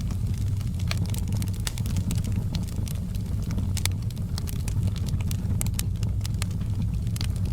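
Wood fire burning in a fireplace: a steady low rumble of the flames with frequent scattered crackles and snaps.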